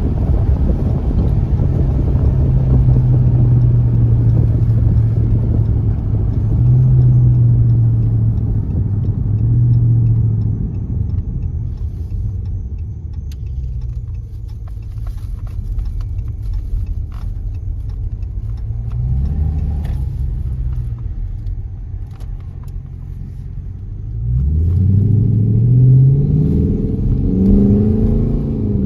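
Straight-piped Dodge Charger R/T's 5.7-litre HEMI V8, with muffler and resonator deleted, droning steadily while cruising, then easing off to a quieter rumble. Near the end it accelerates hard, its pitch rising twice as it pulls through the gears.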